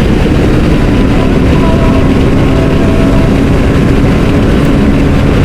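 Motorcycle running steadily at road speed under heavy wind rush on the rider's microphone. A constant engine tone sits under the wind noise.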